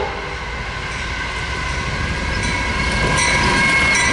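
Norfolk Southern GE AC44C6M diesel locomotives leading a double-stack freight train, approaching and coming alongside. The rumble of engines and wheels on rail grows louder, stepping up about three seconds in, with a steady high-pitched whine over it.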